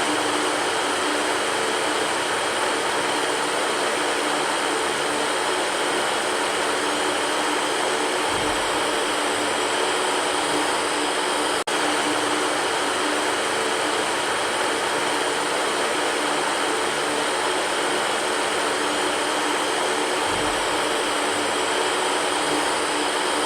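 Electric fan running steadily: an even rushing hiss of air with a faint hum under it. There is one momentary dropout about halfway through.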